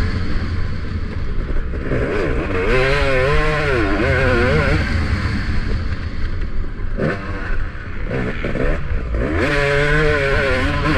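Motocross bike engine revving up and down as the rider works the throttle around the track, the pitch rising and falling several times, with a brief let-off about seven seconds in.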